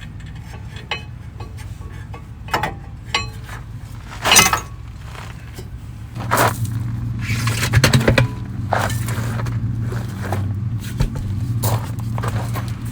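Hand tools and metal suspension parts clinking and knocking, with several sharper knocks around the middle, during work on a car's front strut bolts. A steady low hum runs underneath and grows louder about halfway through.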